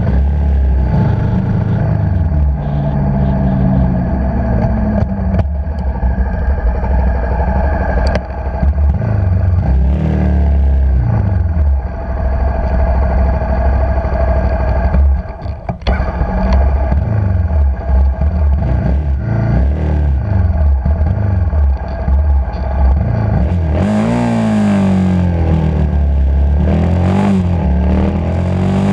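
Motorcycle engine under way, its pitch climbing and falling again and again as the rider works the throttle and gears, with a short drop about halfway through. Wind rush on the helmet camera grows louder near the end.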